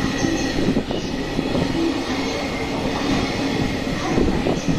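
Container freight train passing at speed: the wheels of its flat wagons rumble steadily over the rails, with a run of clacks near the end.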